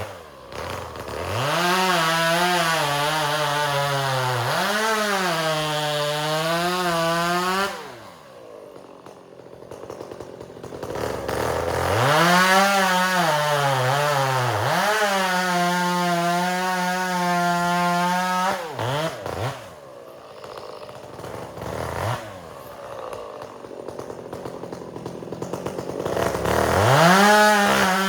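Chainsaw bucking firewood. The engine revs up and holds high through two long cuts, its pitch sagging and recovering as the chain works through the wood. It drops back to idle between cuts, with a few short throttle blips and another rev-up near the end.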